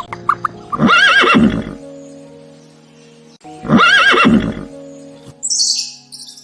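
A horse neighs twice, each a long whinny of about a second with a shaking, wavering pitch, over background music. Near the end there is a brief high chirping.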